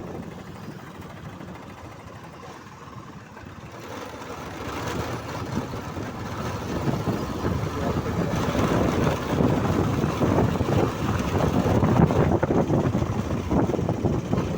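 Motorcycle running while being ridden, its engine mixed with a dense rushing noise, growing louder from about four seconds in.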